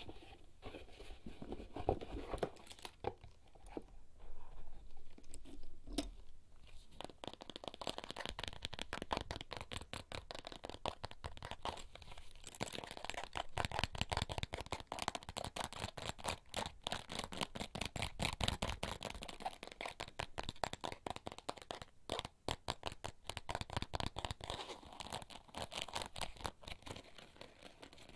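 Fingertips tapping and scratching on small everyday objects from a bag, close to the microphone. A few separate taps come first; after about seven seconds they run into a fast, nearly continuous patter with a crinkly edge.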